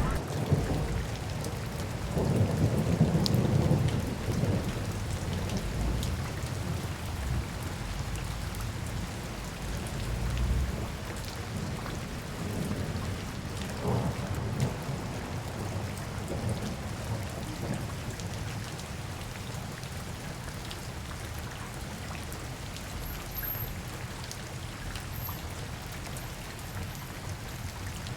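Steady rain falling, with a deep rumble that is loudest in the first four seconds and fades away over the next several seconds.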